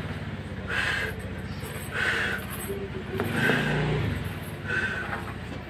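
Chewing a mouthful of rice and longganisa sausage: four chewing sounds about a second and a bit apart, over a steady low hum.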